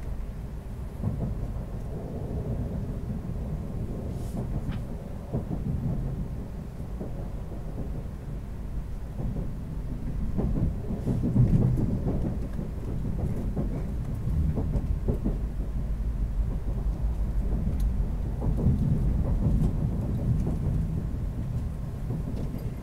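Low rumble of a Tokaido Shinkansen train under way, heard inside the passenger cabin. It swells and eases, with a few faint clicks on top.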